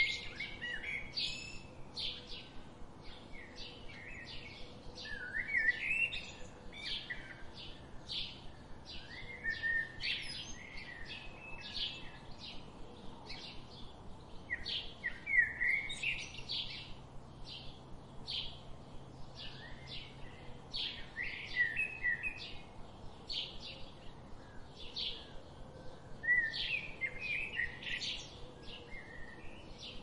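Birds calling: a steady run of short high chips about twice a second, with warbling, sliding calls breaking in every few seconds.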